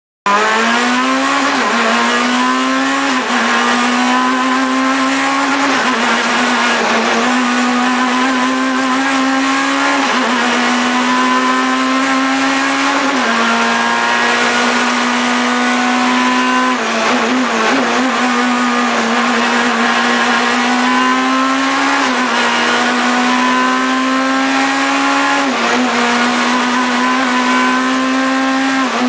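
Proton Super 2000 rally car's two-litre naturally aspirated four-cylinder engine driven hard, its note climbing steadily and then dropping sharply at each quick gear change, about eight times.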